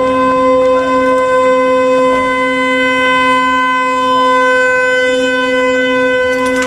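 A horn sounding one loud, steady note, held without a break and without any change in pitch.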